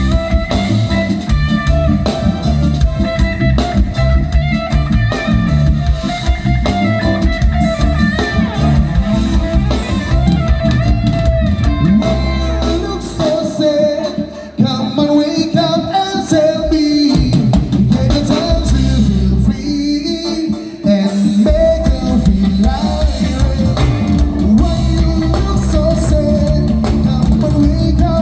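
Live band playing a song with a singer, guitar and drum kit. The bass and drums drop out briefly twice, about halfway through and again a few seconds later, while the vocal line carries on.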